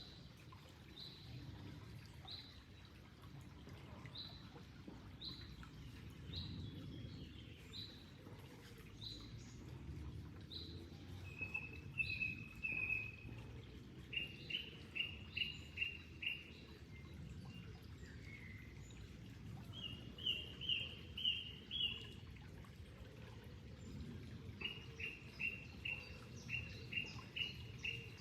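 Songbirds calling over the low rush of flowing water: a short high note repeats about once a second through the first half, and bursts of four to eight quick notes come in several times from about eleven seconds on.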